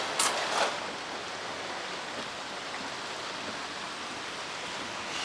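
Steady rain falling, an even hiss, with two brief louder bursts of noise in the first second.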